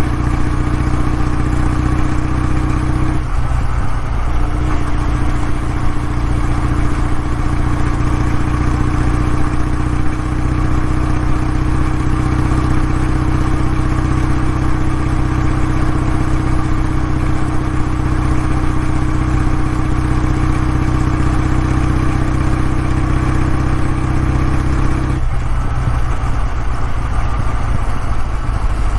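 Kawasaki W650's air-cooled parallel-twin engine and exhaust running at a steady engine speed. The sound changes briefly about three seconds in and changes again near the end.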